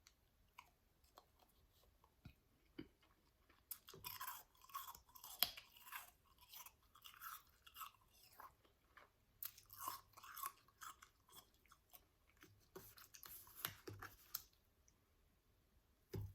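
Close-up chewing and crunching of powdery ice in the mouth, in four bursts of a second or two with quiet pauses between. A few soft mouth clicks come before the chewing starts, and there is one sharp click near the end.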